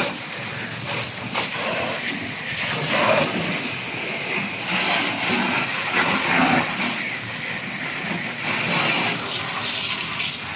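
Running water with a steady hiss.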